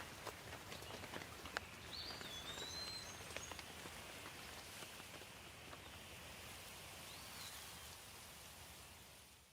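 Light rain, a soft steady patter with scattered single drops ticking, and a bird calling briefly about two seconds in and again near the end. The sound fades down right at the end.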